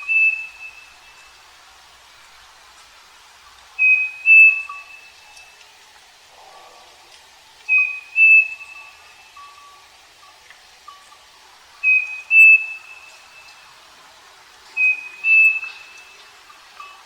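Striped cuckoo (saci) singing its two-note whistled song, the second note a little higher and longer, repeated about every four seconds, five times. Fainter short notes of another bird sound in the background.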